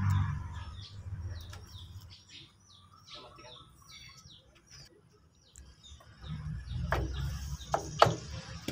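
Small birds chirping in quick, repeated high notes. Near the end a low rumble comes in, with a few sharp clicks; the loudest click is about eight seconds in.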